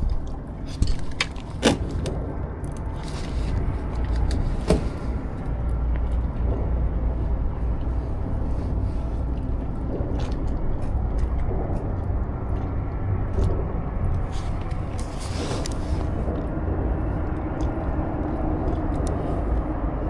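Steady low rumble out on the water, with scattered light knocks and clicks from a kayak and its fishing gear, a few of them sharp in the first seconds.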